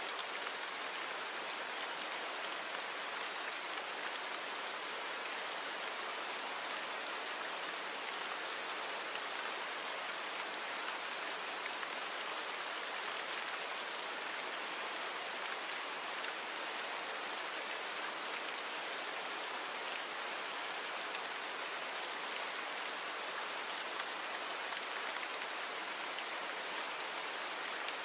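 Steady rain falling on surfaces, an even hiss with little low rumble, from a natural rain recording cleaned up with noise reduction.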